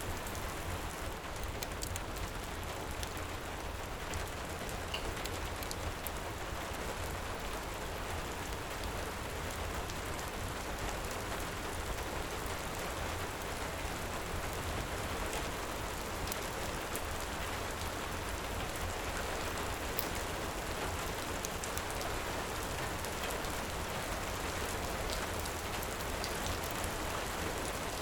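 Steady heavy rain, with a deep low rumble underneath and small sharp crackles of a wood fire scattered through it.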